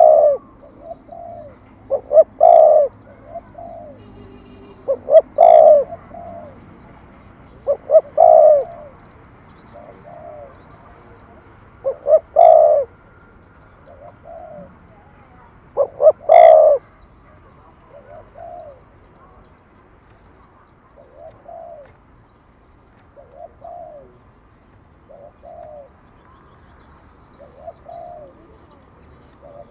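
Spotted dove cooing in the 'thổ thúc gù' call style, a repeated short-then-long coo phrase. Loud phrases come every three to four seconds through the first half, then softer coos follow every two to three seconds.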